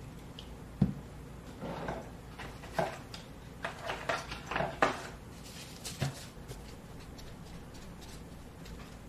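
Household objects being handled: a sharp knock about a second in, then irregular light knocks, clicks and rustles for several seconds, settling to room tone after about six seconds.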